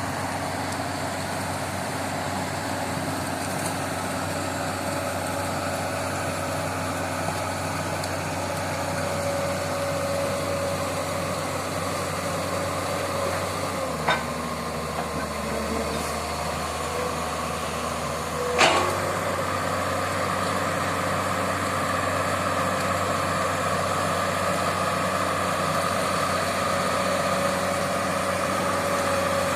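Excavator's diesel engine running steadily as the machine travels on its tracks through swampy mud, its low note shifting for a few seconds around the middle. Two sharp knocks a few seconds apart, the second the louder.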